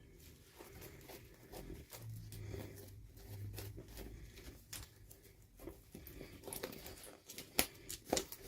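Hands handling small plastic toys and their packaging: soft rustling and light tapping, with two sharper clicks near the end.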